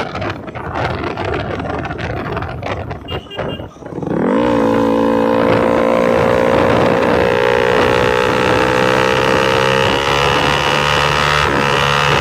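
Motorcycle with an SC-Project exhaust running without its dB killer: a choppy, uneven idle for about four seconds, then the engine revs up quickly and holds a steady high rev.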